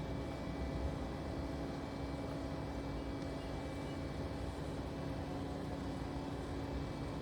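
Backhoe loader's diesel engine running steadily, a constant hum over a low rumble that does not change pitch.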